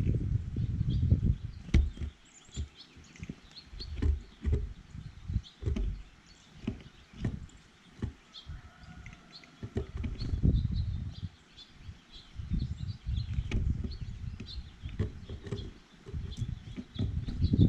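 Small birds at a feeder: faint high chirps throughout, with many sharp clicks and knocks close to the microphone and repeated low rumbling bursts.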